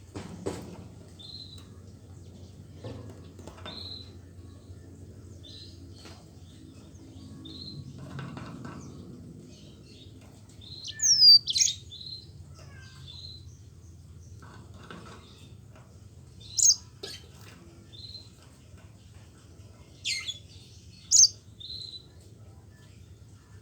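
Yellow-fronted canary (Mozambique canary) singing: short high chirps repeating about every second and a half, with several louder, sharp song notes from about halfway through. A steady low hum runs underneath.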